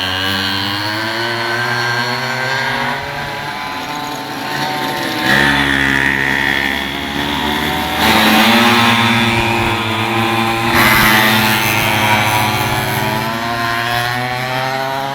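Several minimoto pocket bikes racing, their small high-revving two-stroke engines rising and falling in pitch through the gears and corners. Bikes pass close at about five, eight and eleven seconds in, when the engine note gets louder.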